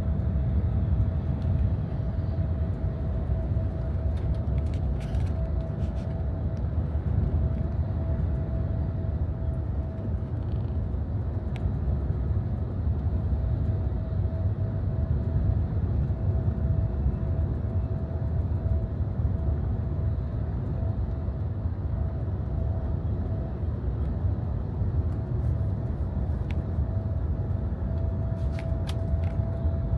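Inside a moving coach bus: steady low engine and road rumble, with a thin steady whine above it.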